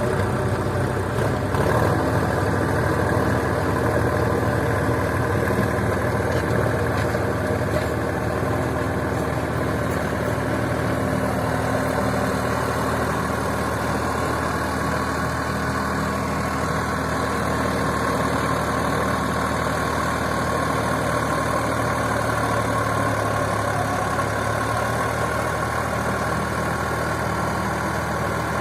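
Sonalika 4WD tractor's diesel engine running steadily as the tractor works in mud.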